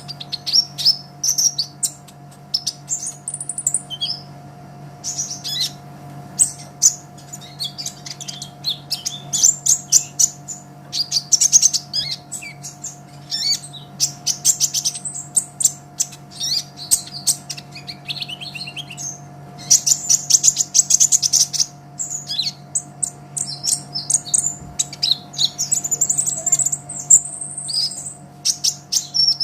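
Kolibri ninja, a sunbird, singing in rapid, high-pitched bursts of chirps and trills separated by short pauses.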